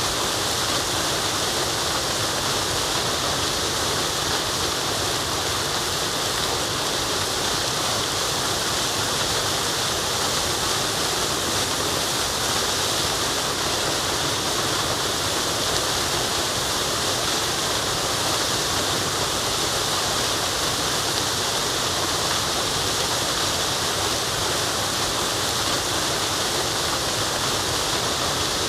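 Waterfall: steady rush of falling water, even and unchanging, with a strong hiss.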